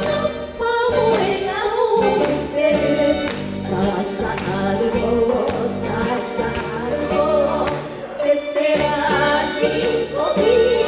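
Japanese ondo song in enka style, with women's voices singing the melody over a punchy arrangement of horn section and taiko drums.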